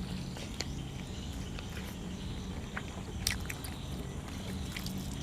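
Close-up eating sounds: chewing and wet mouth clicks, with scattered sharp crunches, the loudest about three seconds in, as cuttlefish and fresh vegetables are eaten. A steady low hum runs underneath.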